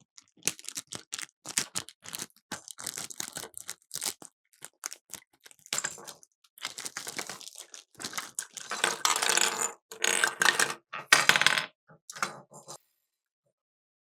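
Hands handling a plastic toy cash register set and its packaging: a busy run of clicks, rattles and crinkles, loudest in the last few seconds before it stops near the end.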